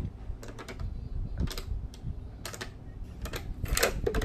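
Close-miked eating of shrimp in sauce: scattered wet mouth clicks and lip smacks while chewing, often in quick pairs.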